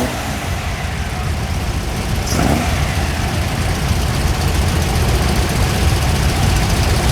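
Vintage Volkswagens' engines running as the cars move slowly in a queue, a steady low engine sound.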